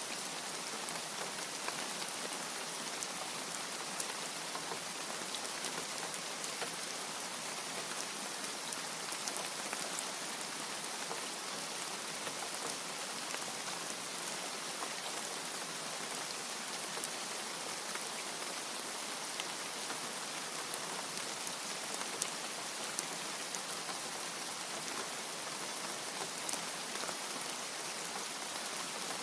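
Steady rain falling, with many individual drops ticking sharply throughout and no thunder.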